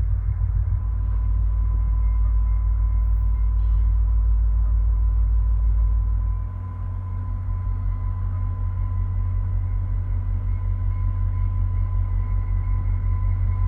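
Steady low rumble of a diesel-hauled passenger train pulling out, with a faint steady high whine; the deepest part of the rumble eases about halfway through.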